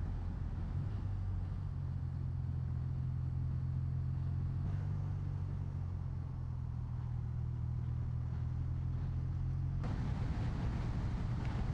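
BMW R12 nineT's air/oil-cooled boxer twin running steadily while being ridden, with wind and road rush. The engine note steps slightly about four and a half seconds in, and the rush of wind grows louder near ten seconds in.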